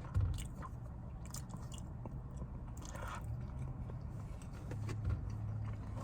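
Close-miked mouth sounds of a person chewing a bite of fried chicken sandwich, with scattered small crunches and wet clicks over a low steady hum.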